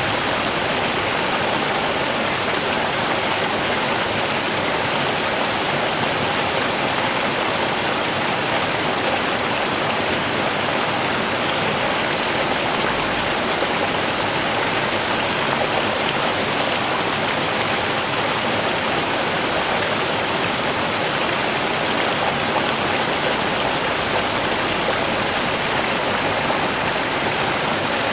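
A river flowing, a steady rush of water without breaks or changes.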